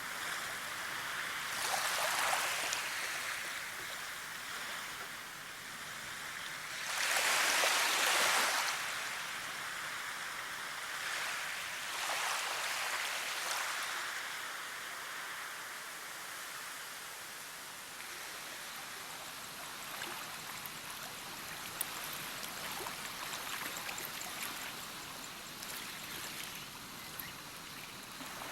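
Steady rushing of flowing water, which swells louder three times in the first half, most of all about eight seconds in, then runs more evenly.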